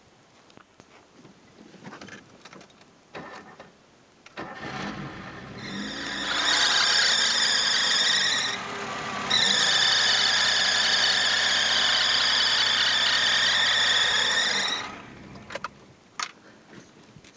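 A car engine starts about four seconds in, and its alternator drive belt at once squeals loud and high-pitched, in two long stretches with a short dip between, stopping near the end. The belt is slipping on its pulleys after start-up, which the owner puts down to a badly worn belt.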